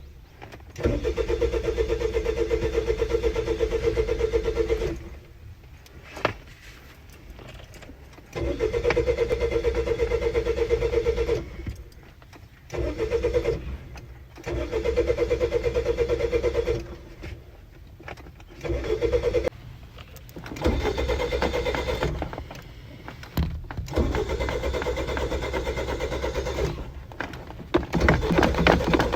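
Car engine being cranked by its starter motor again and again, in about eight tries of one to four seconds each with short pauses between, without firing up: a hard-starting car that won't start.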